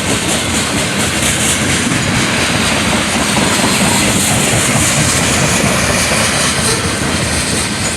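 A train passing close by, running steadily along the rails.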